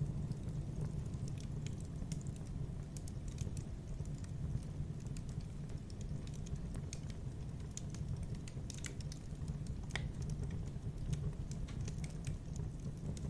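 Wood fire burning in a fireplace: a steady low rumble with irregular crackles and small pops, one louder pop about ten seconds in.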